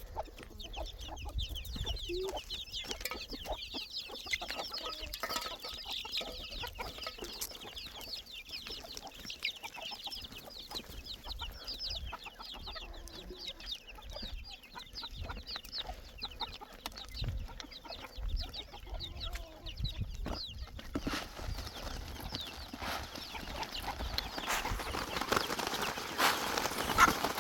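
Chickens calling: a dense run of short, high clucks and chirps over a low rumble of wind. After about twenty seconds the calls stop, and a steady hiss with scattered knocks takes over.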